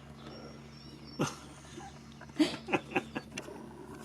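Tiny kitten mewing: one sharp, falling mew about a second in, then three or four short mews in quick succession.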